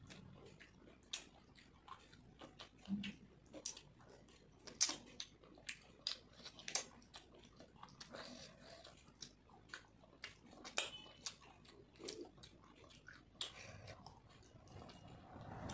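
Close-up eating by hand: chewing and lip-smacking of rice and chicken curry, an irregular string of small wet clicks.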